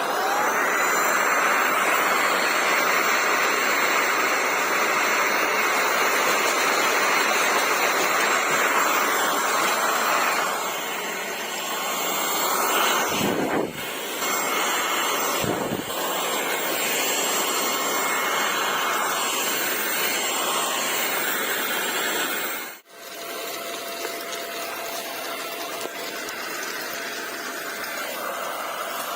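Cordless stick vacuum cleaner running, its motor whine rising as it spins up right at the start and then holding steady. The sound is loudest for the first ten seconds or so and changes level after that. It cuts out briefly about 23 seconds in.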